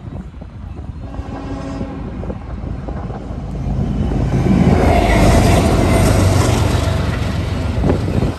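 A train passing: its horn sounds briefly about a second in, then the rumble and clatter of the train grow louder as it draws near.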